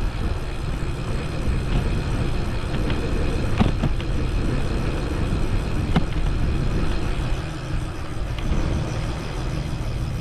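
Wind buffeting the action camera's microphone and the low rumble of riding a bicycle, steady throughout, with a few sharp clicks or rattles near the middle.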